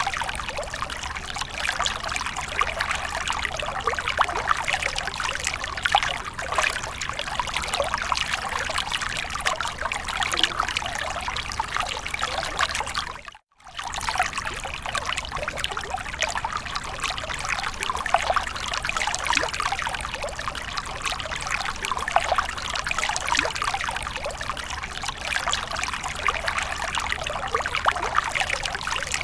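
Water splashing and trickling continuously, a dense patter of small splashes and drips. It cuts out for a split second about halfway through.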